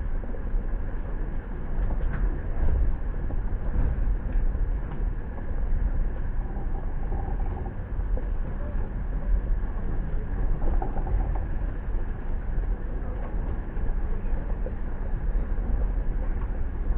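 Steady low rumble of a train standing at the station platform.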